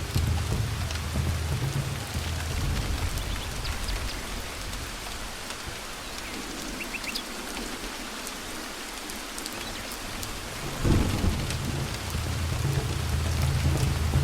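Thunderstorm: steady rain with scattered drop ticks over a low rolling thunder rumble. The rumble dies away midway, then a sudden clap of thunder about eleven seconds in, the loudest moment, starts the rumbling again.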